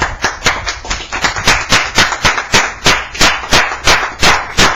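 Hand clapping in a steady run of sharp claps, about four or five a second: applause at the end of a speech.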